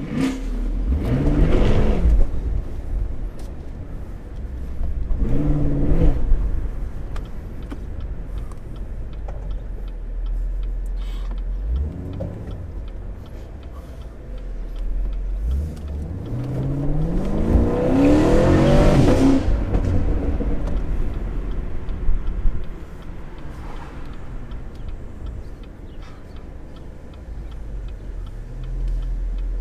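Car engine accelerating over a steady low rumble, its pitch rising with the revs: two short pulls about a second and about five seconds in, then a longer, louder pull from about sixteen to nineteen seconds that drops off sharply.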